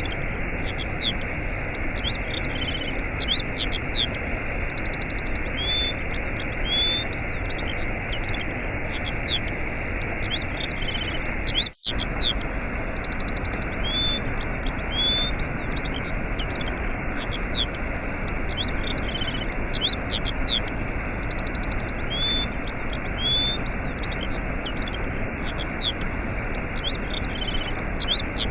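Steady rushing waterfall with small birds chirping over it, the same chirping phrases repeating about every eight seconds. All sound cuts out for an instant about twelve seconds in.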